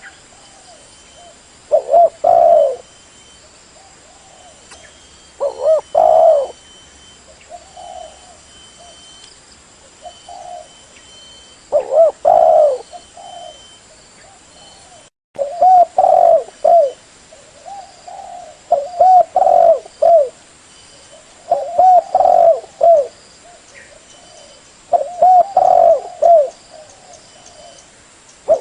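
Spotted dove (tekukur) cooing: phrases of several low, rolling coos repeated every few seconds, with softer coos in between. The sound cuts out briefly about halfway through.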